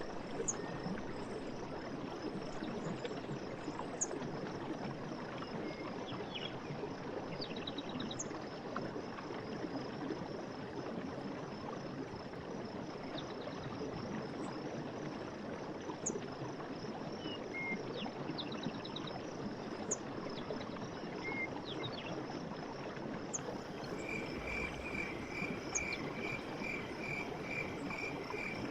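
Night forest ambience: a stream runs steadily under a continuous high, pulsing insect trill, with short high chirps here and there. Near the end a regular chirping call starts, a little over two chirps a second.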